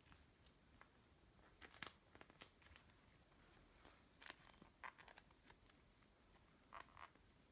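Faint crackling and tearing of cloud slime being stretched and pulled apart, in three short bursts of soft clicks.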